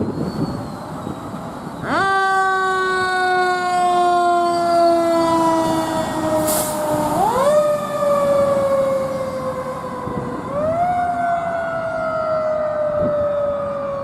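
Fire engine's siren winding up sharply and then slowly winding down, three times in a row, over the truck's running noise.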